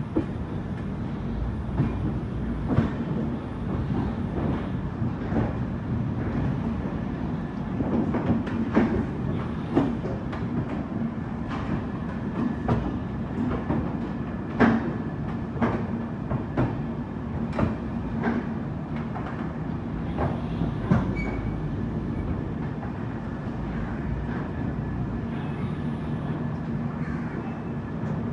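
Express train running on the track: a steady rumble of the coach with irregular sharp clacks of the wheels passing over rail joints.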